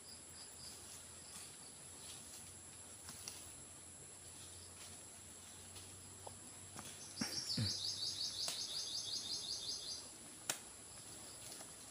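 A bird giving a rapid trill of high chirps for nearly three seconds, starting about seven seconds in, over a steady high insect drone and a few faint knocks.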